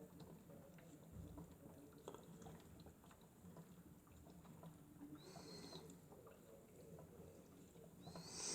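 Faint running of a Miele W1 toy washing machine mid-wash, a low hum with light ticking, broken twice by a short high squeak, about five seconds in and again near the end.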